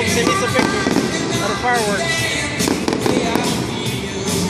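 Aerial fireworks bursting and crackling in quick succession, mixed with loud music and a voice that carries through a loudspeaker.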